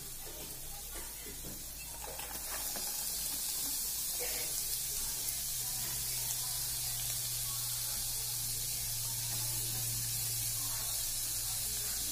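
Chopped onions frying in butter with garlic and green chilies: a steady sizzle that grows louder about two and a half seconds in, as the onions go into the hot pan. A few faint knocks sound in the first few seconds.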